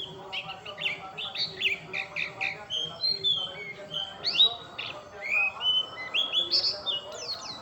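White-eye (pleci) singing a fast, unbroken twittering song of short high chirps and quick rising and falling whistles.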